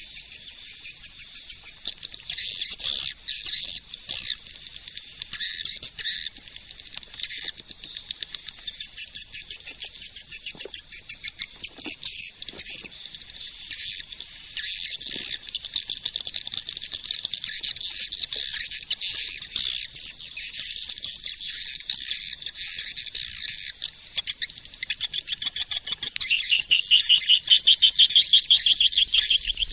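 Swiftlet calling sound, the lure played to draw edible-nest swiftlets into a nesting house: a dense, unbroken chorus of rapid high twittering chirps, louder near the end.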